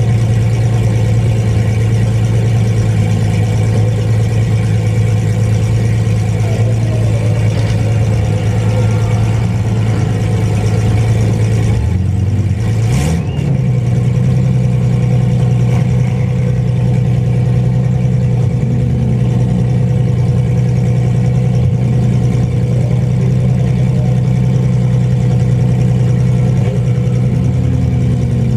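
Mini truck engines running steadily and loudly, with one sharp knock about thirteen seconds in.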